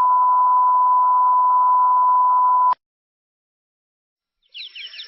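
A steady, loud test tone, a single pure beep that cuts off sharply nearly three seconds in. After a short silence, faint bird chirping begins near the end.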